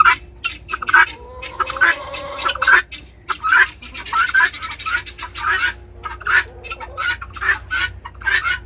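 Chickens clucking: a steady run of short, repeated clucks.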